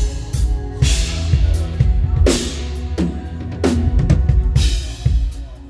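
Drum kit playing with the band: kick and snare hits with several cymbal crashes and falling tom strokes over steady low bass notes, the playing dying away near the end.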